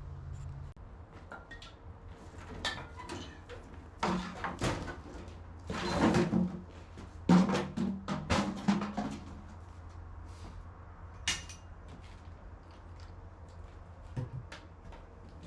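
Irregular knocks and clattering, loudest around the middle, over a steady low hum.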